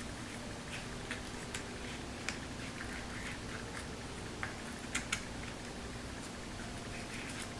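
Paper and card being handled: faint scattered taps and rustles, with a quick double tick about five seconds in, over a low steady hum.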